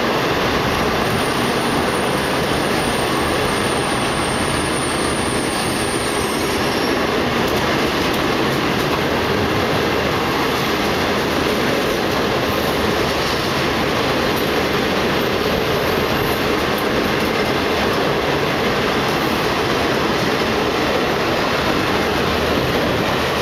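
A Type 22 passenger train's coaches rolling past at low speed as it pulls out of a station: a steady rumble and clatter of wheels on the rails. A faint high whine sounds from about one to six seconds in.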